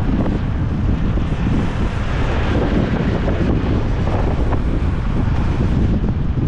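Wind buffeting the microphone on a moving motorbike, a steady rushing noise with the ride's road and engine noise underneath.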